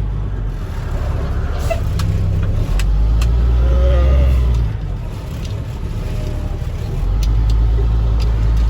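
Freightliner box truck's engine droning inside the cab while driving in slow traffic, swelling about three seconds in, easing off near the middle and swelling again near the end, with a few light clicks.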